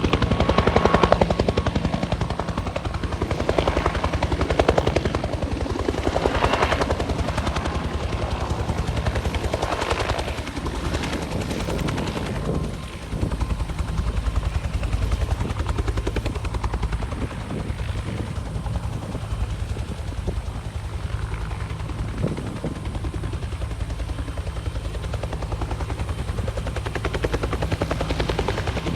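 Firefighting helicopter's rotor running with a rapid, steady blade chop. Rushing noise swells up and down over it for about the first twelve seconds, then settles.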